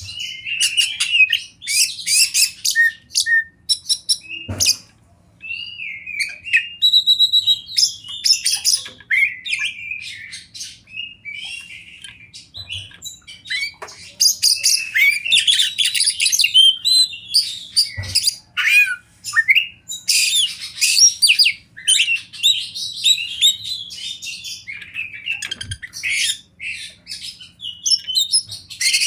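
Oriental magpie-robin (kacer) singing a long, varied song of whistles and rapid chattering notes, with a brief pause a few seconds in.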